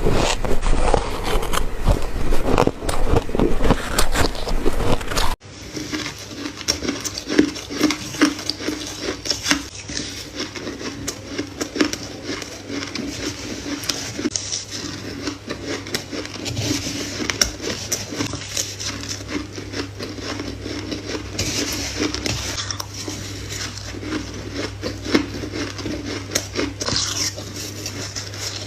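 Close-miked crunching and chewing of shaved ice: dense crackling and crunching. About five seconds in it cuts abruptly to quieter, continuous crackly chewing over a low steady hum.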